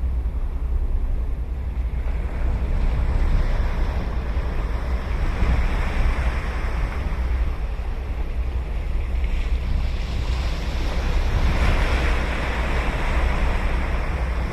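Ocean surf breaking and washing up a sandy beach, swelling twice. Wind rumbles steadily on the microphone underneath.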